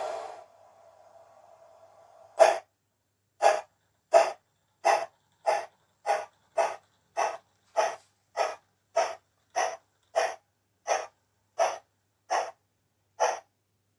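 Synthesized steam-locomotive exhaust chuffs from a MyLocoSound sound card, played through a small speaker in a 16mm-scale model tram engine. About seventeen chuffs start about two seconds in, quickening from about one a second to nearly two a second, then slowing a little near the end, as a loco pulling away.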